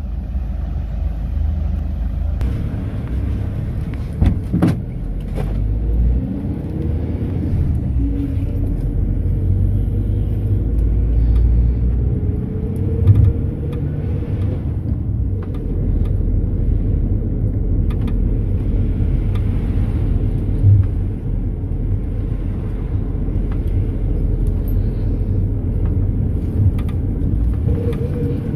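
Mercedes-Benz Sprinter minibus driving, heard from inside the passenger cabin: a steady low engine and road rumble, with the engine pitch rising a couple of times as it accelerates, and a few sharp knocks and rattles from the body.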